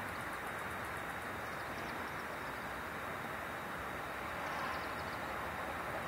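Faint, high twittering of chimney swifts in two short spells, over a steady rushing background noise.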